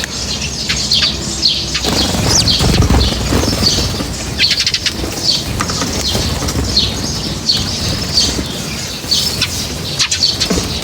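Small birds chirping, many short chirps in quick succession, with the flutter of wings and low rumbling noise now and then.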